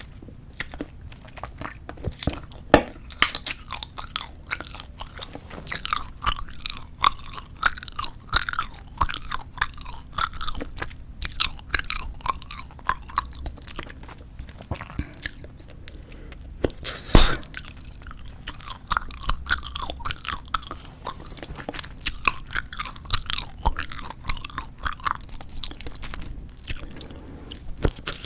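Close-miked chewing of soft squeeze-tube bubblegum: wet smacking and clicking. Two much louder sharp pops come about three seconds in and a little past halfway.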